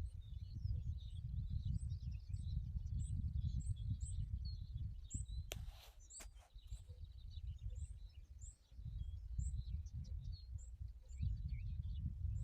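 Small birds chirping and calling, with a run of short, high chirps repeating a couple of times a second, over a gusty low rumble that drops away for a few seconds midway. A few sharp clicks sound near the middle.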